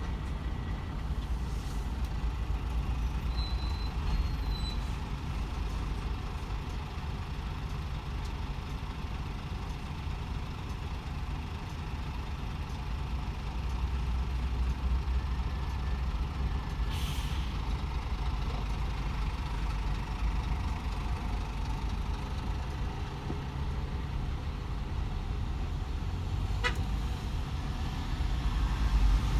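DAF XF 510 truck's engine and road noise while driving: a steady low drone, with a short hiss about halfway through and a single click near the end.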